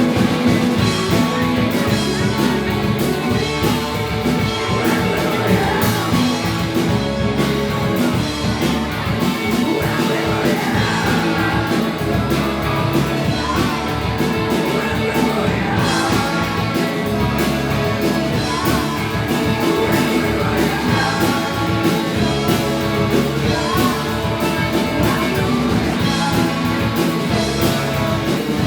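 Rock band playing a song live: drum kit, guitars and bass, with singing over them.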